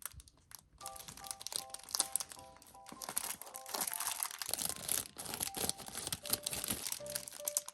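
A plastic bread wrapper crinkling and being torn open, with crackly handling noise, over background music of short repeated notes.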